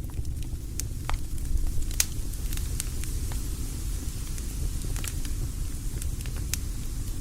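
Campfire burning and crackling, with frequent irregular sharp pops over a steady low rumble.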